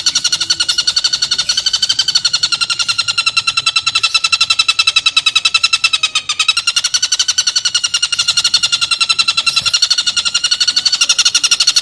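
Tengkek buto kingfisher giving a rough, rapid rattling call: a fast unbroken train of harsh notes held at one pitch, with a brief dip about six seconds in.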